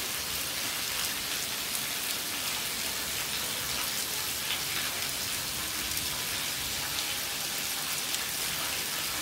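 Heavy rain falling steadily: a dense, even hiss with scattered sharp taps of single drops.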